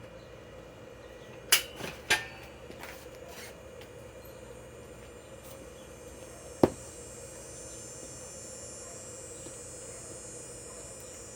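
Sharp clicks and knocks of tools and drill bits being handled: two knocks close together, a few fainter clicks, then one more sharp knock, over a steady low hum with a high hiss coming in partway through.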